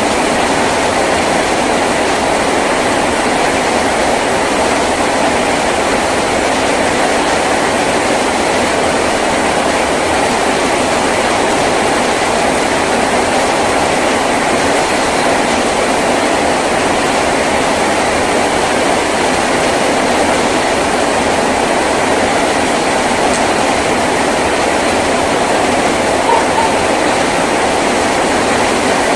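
Heavy rain drumming steadily on a tin roof, an even, unbroken rush of noise.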